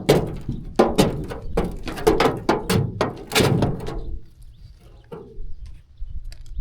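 Sheep moving about and jostling: a dense run of irregular knocks and clatters for about four seconds, then quieter.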